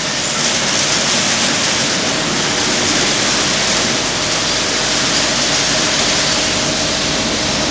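Automatic car wash machinery running, with a steady loud hiss of water spraying onto a van and a faint steady hum underneath.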